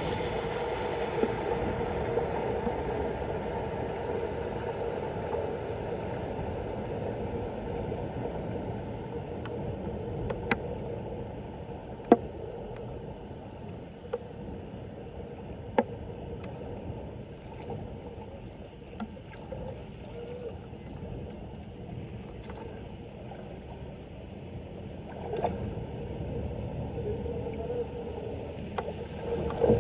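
Floodwater gurgling and rushing steadily down a street storm drain, easing a little partway through and swelling again near the end, with a few sharp clicks.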